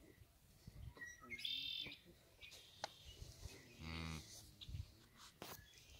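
Songbirds chirping and singing in the trees, with one louder high phrase about a second and a half in. A short low hum-like call sounds briefly about four seconds in.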